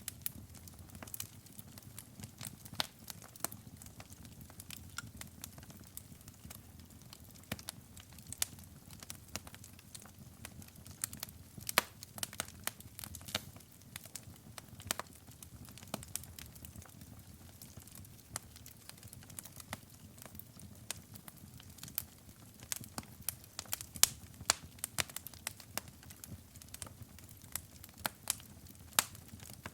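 Wood fire in a fireplace crackling and popping: irregular sharp snaps over a low, steady hush of burning logs.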